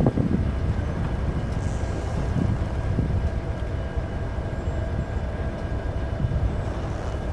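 Norfolk Southern freight train rolling past, a steady low rumble of wheels on rail with a faint steady squeal over it.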